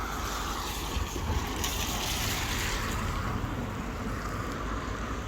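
Wind buffeting the microphone in rainy weather, a low rumble under a steady rushing hiss that swells briefly about two seconds in.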